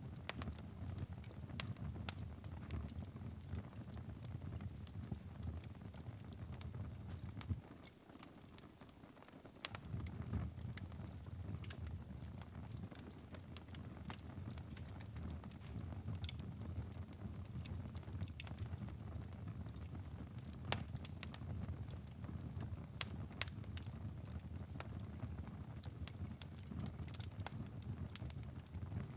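Wood fire burning in a fireplace: a steady low rumble of flames with frequent sharp crackles and pops. The low rumble drops away for about two seconds, some eight seconds in, while the crackling carries on.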